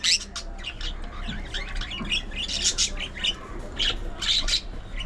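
Budgerigars chattering, a steady stream of short chirps and harsh squawks from several birds at once.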